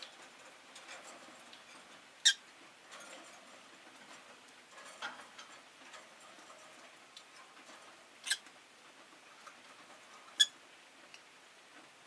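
Rosy-faced lovebirds giving three short, sharp, high chirps, about two, eight and ten seconds in, with softer calls between. Faint clicks and rustles of the birds moving about the cage run underneath.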